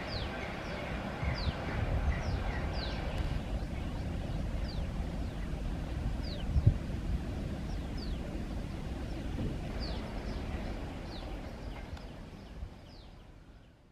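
A bird calling about once a second with short, falling high notes over a low, steady outdoor rumble, with one louder knock about midway; it all fades out at the very end.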